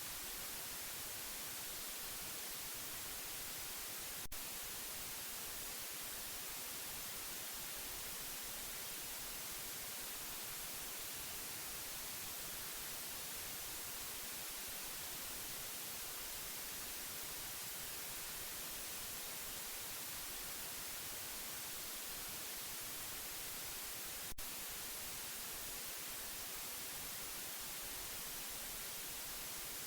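Steady white noise, an even hiss strongest in the treble, with a short click about four seconds in and another about twenty seconds later.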